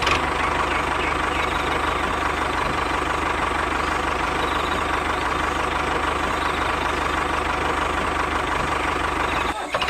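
An engine idling steadily with an even low throb, dipping briefly near the end.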